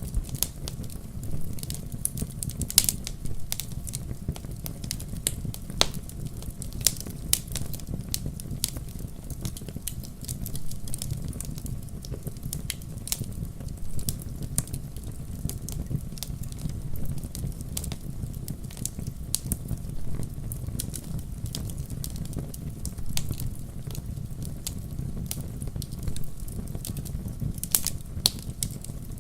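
Wood fire burning in a fireplace, crackling, with irregular sharp pops of burning logs over a steady low rumble.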